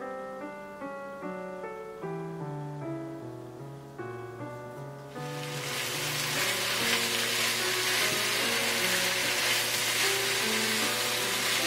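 Gentle piano background music. About five seconds in, it is joined by a loud steady sizzle of smoked duck, kimchi, onion and green onion frying in the duck's own fat in a nonstick pan as they are tossed with chopsticks. The sizzle becomes the loudest sound.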